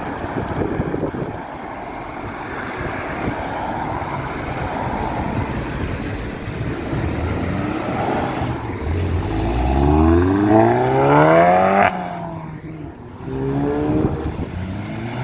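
Cars accelerating hard away from a roundabout. One engine revs up in a rising note that grows loud and breaks off sharply near the end, then a second, shorter rev climbs just after, over steady traffic and wind noise.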